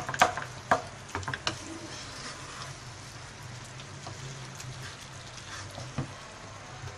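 Keema (minced meat with onions) sizzling in a nonstick pan as its remaining water cooks off. A spatula scrapes and taps against the pan several times in the first second and a half, and once more near the end.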